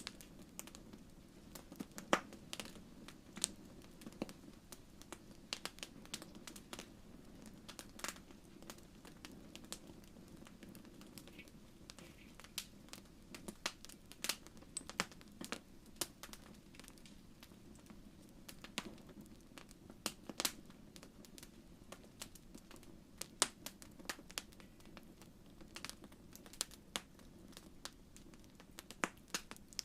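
Wood fire crackling in a fireplace: irregular sharp pops and snaps, several a second, over a steady low background noise.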